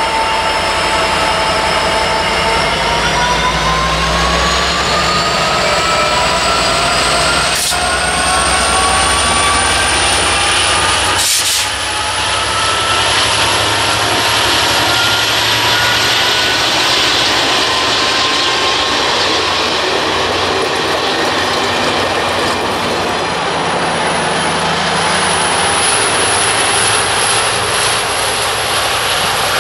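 EMD F59PHI diesel locomotive and coaches of a passenger train passing close by: the locomotive runs with a whine that rises in pitch over the first ten seconds, over a steady loud rush of wheels on rail. Two sharp knocks at about eight and eleven seconds in.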